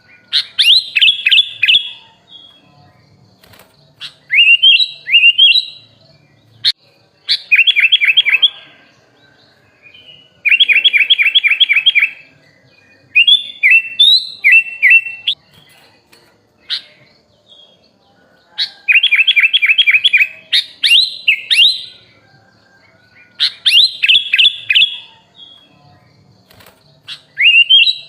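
Sooty-headed bulbul (kutilang) singing: short phrases of quick, rapidly repeated whistled notes, sung again and again with pauses of a second or two between them.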